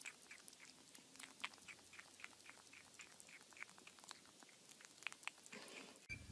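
Faint, irregular crunching clicks of an animal chewing, several a second.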